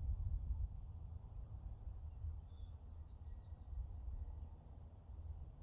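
Faint outdoor ambience with a steady low rumble. A small bird gives a quick run of about five short, high, downward chirps a little before the middle.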